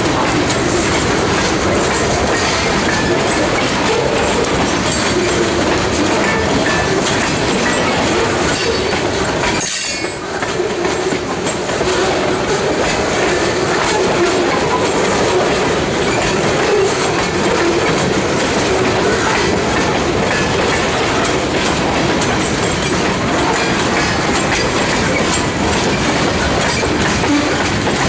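Freight train cars rolling past close by, steel wheels clattering over the rail joints in a loud, steady run, with a brief dip about ten seconds in.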